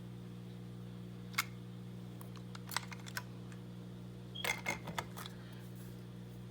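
Scattered light clicks and taps from a toy steam locomotive being handled and turned over: one about a second and a half in, a few around three seconds, and a quick cluster near the five-second mark, over a steady low electrical hum.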